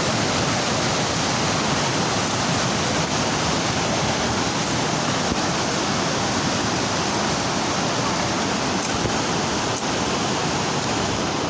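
Flooded Kosi river rushing past in full spate after days of heavy rain: a loud, steady wash of fast, high water with no let-up.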